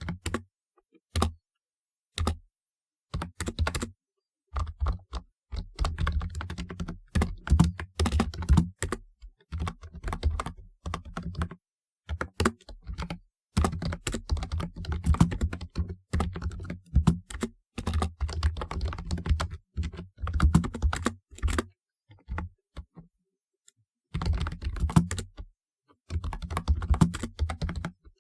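Typing on a typewriter-style keyboard: fast runs of key clicks broken by short pauses, with one longer pause of about two seconds in the later part.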